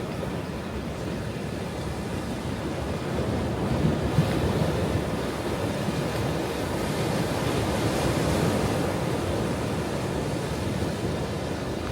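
Ocean waves breaking and washing on a shore, one swell building about three seconds in and easing off near the end, with some wind on the microphone.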